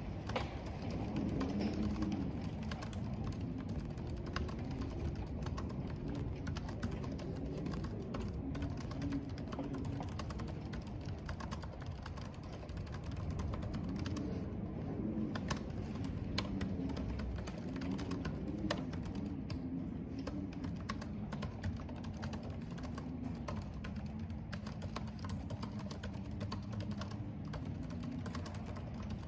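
Computer keyboard being typed on, irregular key clicks, over a steady low rumble of wind and rain.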